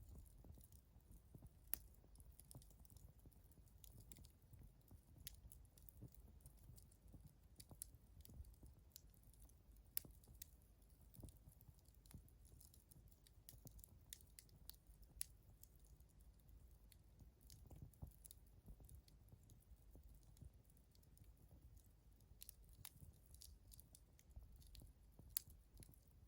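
Wood fire crackling faintly, with scattered sharp pops over a low rumble.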